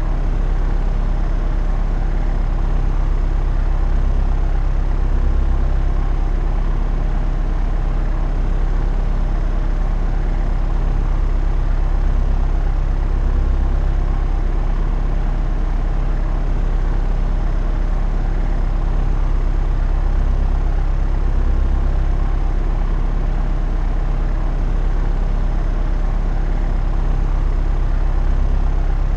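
Propeller aircraft in flight: a steady engine and propeller drone with a deep hum, swelling gently in loudness every several seconds.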